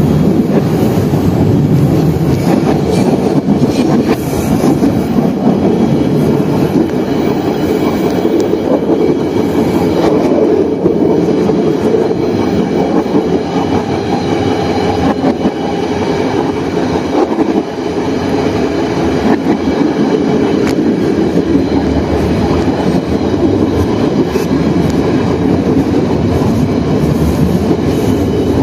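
A diesel-electric train running along the track, heard from the front cab. The engine and the wheels on the rails make a steady, loud running noise that changes little.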